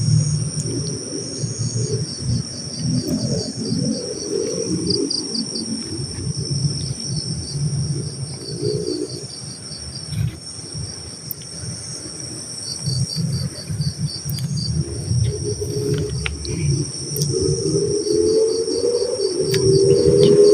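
Night insects, crickets among them: a steady high-pitched chorus with runs of rapid chirping pulses. An uneven low rumble runs underneath, and a low tone rises in pitch near the end.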